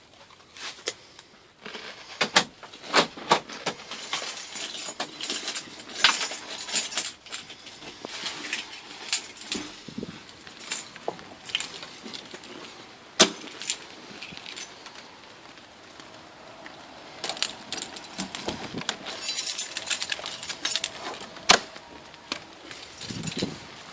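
Keys jingling in irregular clusters, mixed with scattered sharp clicks and knocks of handling. There are two longer bouts of jingling, a few seconds in and again about three-quarters of the way through.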